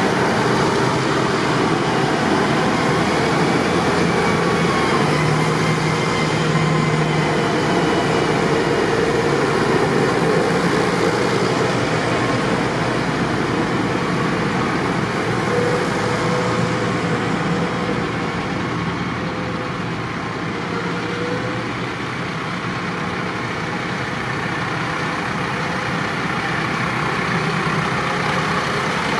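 Tractor engines running in a steady mechanical drone, easing off slightly about two-thirds of the way through.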